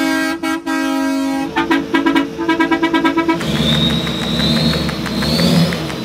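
A car horn held for about a second and a half, then blared in a rapid string of short honks. About three and a half seconds in it gives way to loud vehicle engine noise with a high whine rising over it.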